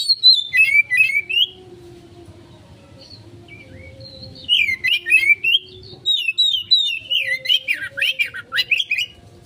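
Oriental magpie-robin singing in the fast, agitated 'konslet' style used as a lure to provoke other magpie-robins: three quick bursts of rapid, varied whistled and chattering notes, one at the start, one about four and a half seconds in, and a longer one from about six seconds to near the end.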